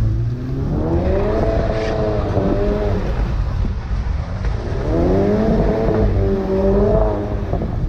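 Turbocharged four-cylinder car engine accelerating twice, its revs climbing and then holding each time, heard from inside the cabin over low road rumble.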